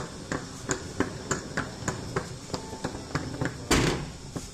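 Footsteps on a hard floor, sharp regular taps about three a second. Near the end there is a single short, louder rush of noise.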